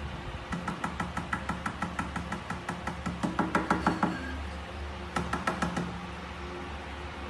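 Rapid tapping or knocking, about six taps a second, in a long run and then a shorter one, over a low steady hum.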